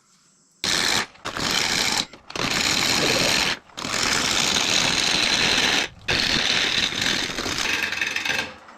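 A turning gouge cutting into a spinning mesquite blank on a wood lathe, in several loud passes with short breaks between, starting suddenly under a second in. Bark is tearing off the blank's edge.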